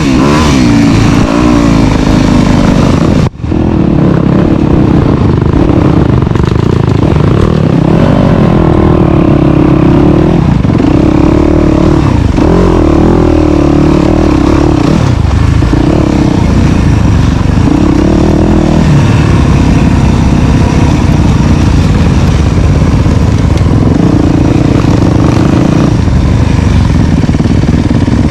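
Dirt bike engine running loud under load, its pitch repeatedly climbing as it revs up and then falling back. There is a momentary break in the sound about three seconds in.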